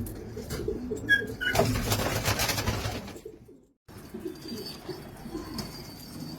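Pigeons cooing in repeated low pulses. About a second and a half in, a loud rush of noise covers them for over a second. The sound then drops out completely for a moment before the cooing resumes.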